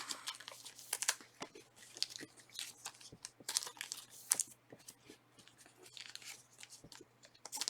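Faint, intermittent rustling, crinkling and small clicks of trading cards and their plastic wrappers and sleeves being handled.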